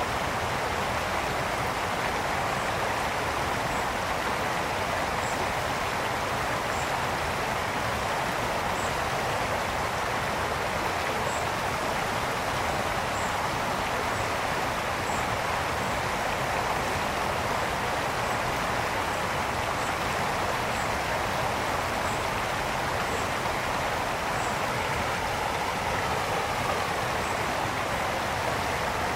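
A brook flowing steadily, an even rush and babble of water with no breaks.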